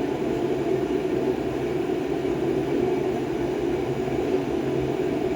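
A steady low mechanical drone at an even level, with no rhythm or sudden sounds.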